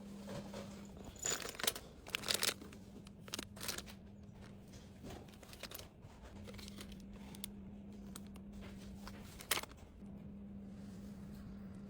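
Packaging being handled, crinkling and rustling in short irregular spells with a few sharp crackles, the sharpest a little before the end. A steady low hum runs underneath.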